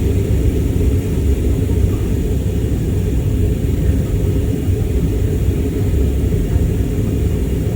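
Airliner cabin noise of an Airbus A321neo in flight: a steady low rumble of airflow and engines with a faint hiss over it.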